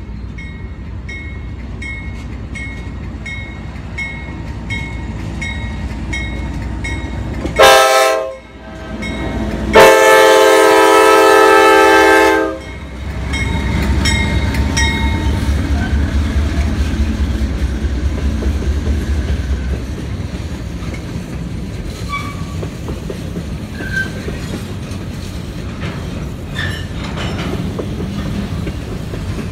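A freight train passing a grade crossing. The crossing bell dings about twice a second while the CSX six-axle diesel locomotive approaches; the locomotive then sounds a short horn blast and, about two seconds later, a long one, and its engine rumbles loudly as it goes by. The freight cars follow with a steady rumble and the clickety-clack of wheels on the rails.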